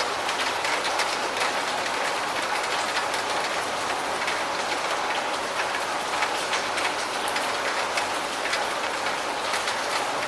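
Steady rain falling: a dense, even hiss with many small drop ticks on a surface throughout.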